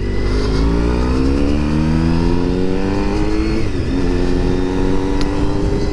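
Honda motorcycle engine accelerating, its pitch rising steadily, then an upshift about three and a half seconds in, after which it climbs again more slowly.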